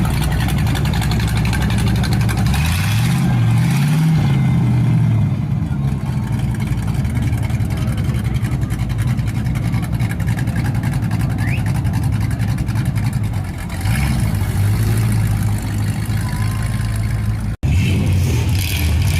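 Car engines running as cars cruise by, one revving up and easing off a few seconds in and another blipping briefly later on. A brief drop-out comes near the end.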